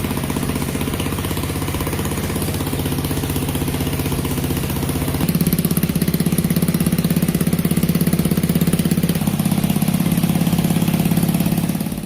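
Motorcycle engine running steadily, getting louder about five seconds in.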